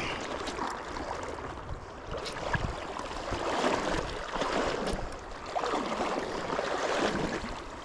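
Stream water running and rippling over shallow, broken riffles, a steady rushing that swells and eases.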